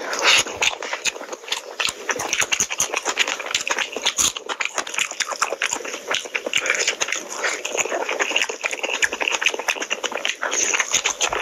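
Close-miked wet chewing and lip-smacking of a person eating rice and curry by hand, a continuous run of quick smacks and clicks.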